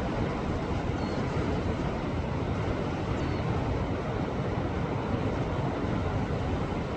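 Sea waves surging against a rocky shore: a steady, dense rush of surf with a heavy low rumble, with no single break standing out.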